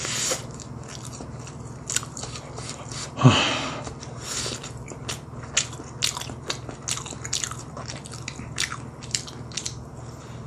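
Close-up crunching and chewing of a batter-fried, mozzarella-filled Korean corn dog, with many short crisp bite and chewing sounds spread through. About three seconds in, a short low hum from the eater falls in pitch and is the loudest sound.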